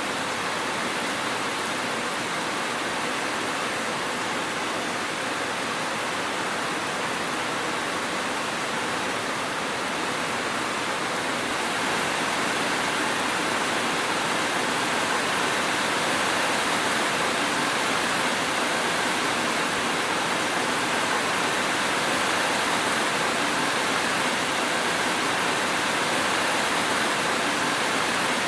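Steady heavy rain, a dense even hiss with no distinct drops or thunder; it grows slightly louder about twelve seconds in.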